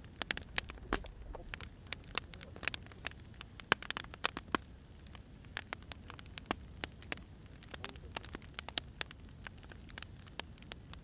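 Burning firewood crackling: irregular sharp pops and snaps of varying loudness over the low steady rumble of the flames.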